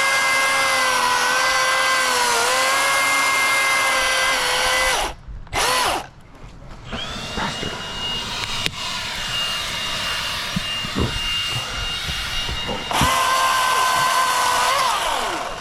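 Electric chainsaw running with a steady high motor whine, dipping slightly in pitch now and then as it cuts. It stops about five seconds in and runs briefly again. After a quieter stretch it starts up again near the end and winds down.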